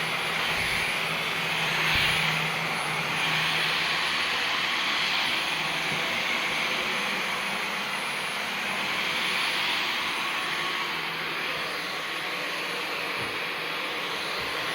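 Dyson V15 Detect Absolute cordless stick vacuum running, a steady high whine and rush of air that swells and eases every few seconds.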